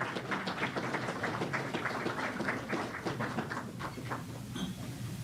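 Audience applauding, dense irregular clapping that thins out near the end.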